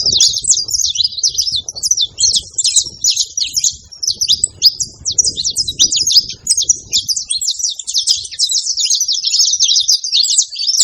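A pair of saffron finches, male and female, chirping and singing in a rapid, continuous stream of high notes. A low rumble comes and goes underneath.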